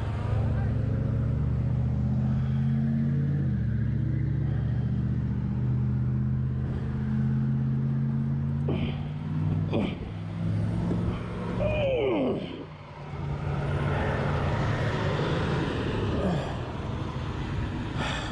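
Motorcycle engine running at a steady idle, its note dropping slightly a few seconds in. About twelve seconds in there is a short falling whine, and the engine sound dips briefly.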